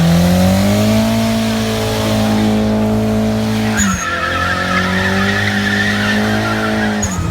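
A car engine held at high revs during a drift, with tyres skidding and squealing. The revs dip briefly about four seconds in and climb back, and a high tyre squeal joins over the second half.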